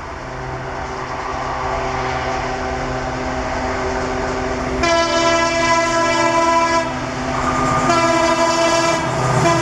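Indian Railways WAP-4 electric locomotive hauling an express train, its rumble growing louder as it approaches. About halfway through its horn sounds three long blasts, the last still sounding at the end.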